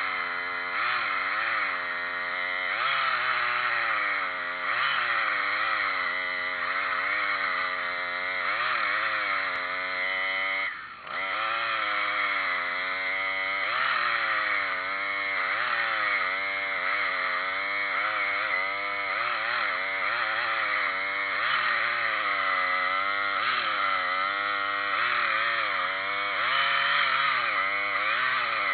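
Chainsaw running steadily, its engine pitch rising and falling as the load changes, with a brief drop in level about eleven seconds in.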